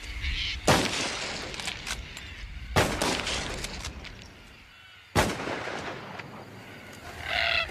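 Three rifle shots, about two seconds apart, each trailing off in a long echo. Cockatoos start calling near the end.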